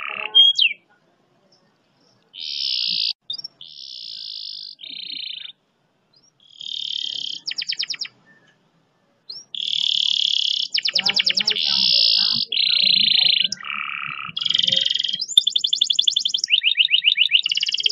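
Domestic canary singing a fast rolling song: high buzzy rolls and rapid trills in separate phrases, with a few short silent pauses in the first half, then phrases following one another almost without a break from about halfway through.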